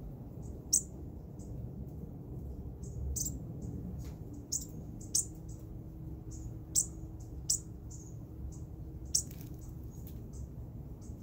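A tiny long-tailed songbird giving short, high-pitched chirps, a dozen or more at irregular intervals, the loudest coming every second or two.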